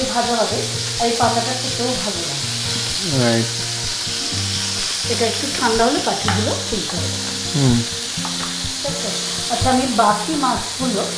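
Gram-flour batter fritters sizzling in hot oil in a frying pan: a steady frying hiss. Background music with held notes and a melody plays over it.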